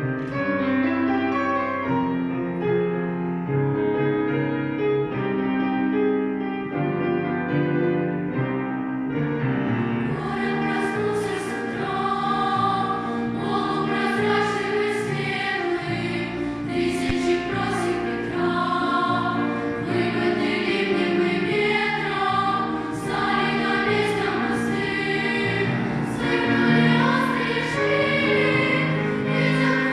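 Piano playing a song introduction. About ten seconds in, a choir comes in singing with the piano accompanying.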